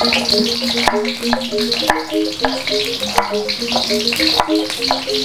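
Shallots sizzling in hot oil in a wok, with a knife cutting garlic cloves on a wooden board at about two strikes a second. Background music plays a stepping melody underneath.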